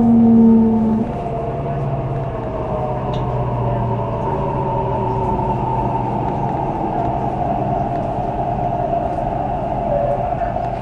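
Mitsubishi Electric IGBT-VVVF traction inverter and motors of a CRRC Changchun MTR train whining as the train slows. Several tones slowly fall in pitch over a low drone. A strong low tone stops about a second in, the lowest hum fades about halfway, and the whine cuts off abruptly at the end as the train comes to a stop.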